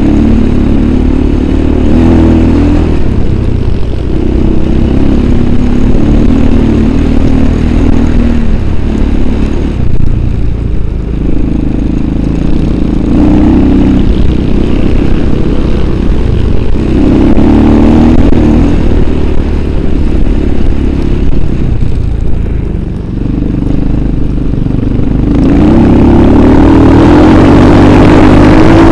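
Motorcycle engine under way, its revs climbing and dropping again and again with throttle and gear changes, then held high and steady for the last few seconds.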